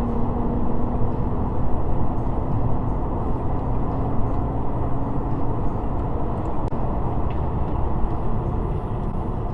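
Steady low road and engine rumble of a moving car as picked up by a dashcam, with a faint steady hum that fades out about six seconds in.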